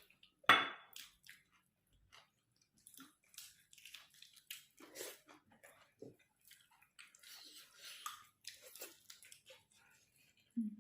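A person chewing food close to the microphone, with scattered small mouth and eating noises and one sharp knock about half a second in.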